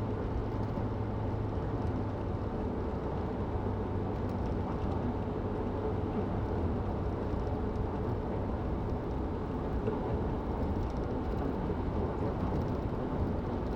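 A car's engine and tyre noise heard from inside the cabin while driving: a steady, even low drone.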